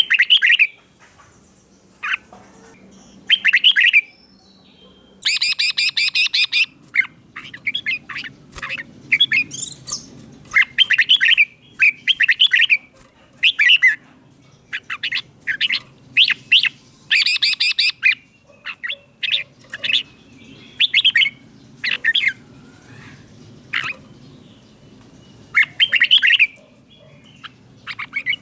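Red-whiskered bulbul singing: short, bright, warbling phrases repeated every second or two, broken by a few harsher, buzzier chattering bursts.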